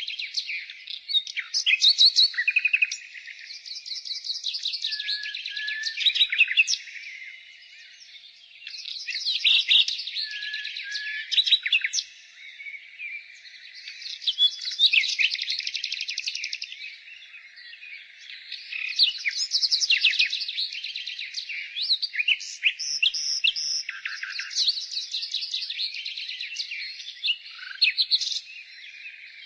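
Nightingale singing: phrases of rapid repeated notes and trills with a few lower whistled notes, broken by short pauses.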